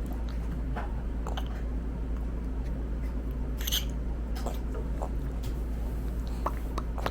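A toddler chewing and eating, with small wet mouth clicks and smacks scattered through, over a steady low hum. A brief, sharper click stands out about three and a half seconds in.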